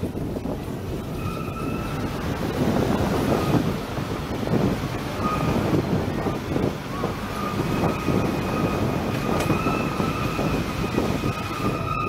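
Steam train passenger car rolling along the track, heard from aboard: a steady rumble and clatter of the ride, with a thin high squeal that comes and goes and holds steady near the end.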